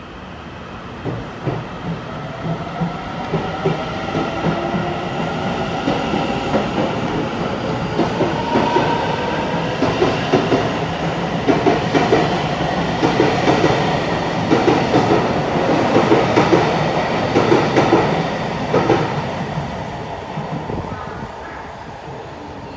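Taiwan Railways train running along the platform track, growing louder to a peak and then fading, with the wheels clacking over rail joints and a whine that slides in pitch.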